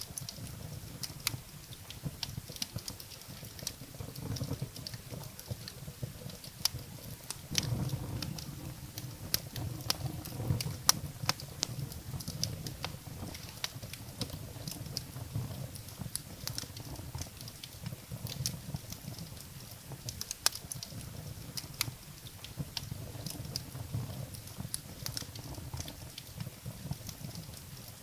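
Firewood burning in a fireplace: sharp, irregular crackles and pops over a low, uneven flame noise that swells for a few seconds about a third of the way in.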